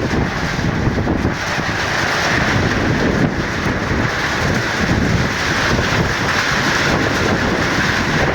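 Rain falling in strong gusty wind, the wind buffeting the microphone: a steady rushing noise with an uneven low rumble as the gusts hit.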